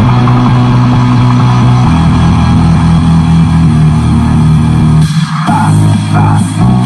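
Loud music with heavy held bass notes, played through a custom car audio system with a subwoofer box; the bass note shifts about two seconds in, and the sound briefly drops out about five seconds in.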